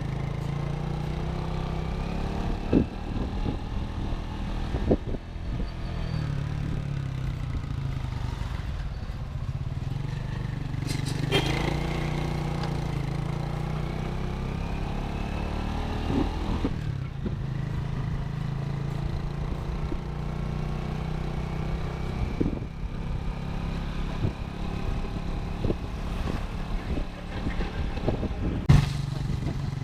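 Motorcycle engine running steadily while riding, with a few short knocks and clatters along the way.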